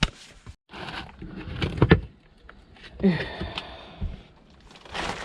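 Scrap parts and tools being handled on a workbench: a series of sharp knocks and clicks, with a cluster of clatter about two seconds in, and a brief murmur from the worker near the middle.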